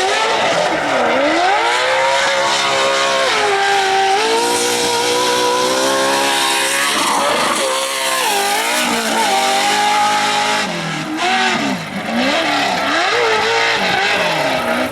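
Off-road race truck engine revving hard, its pitch climbing and dropping repeatedly with throttle and gear changes as it is driven around the course.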